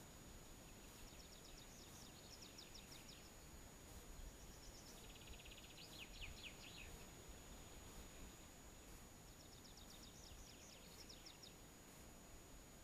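A songbird singing three faint trilled phrases of quick high notes, each about two seconds long, over a quiet background hiss.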